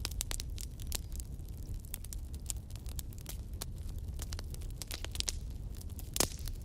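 Wood fire crackling: irregular sharp pops and snaps over a steady low rumble of flame, with one louder pop a little after six seconds in.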